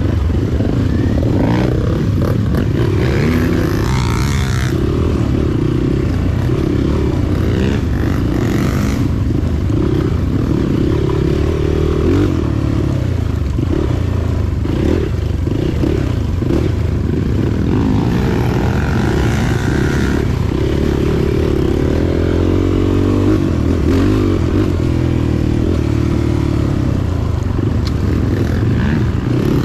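Motorcycle running steadily at speed, with its engine and heavy wind rumble on the microphone.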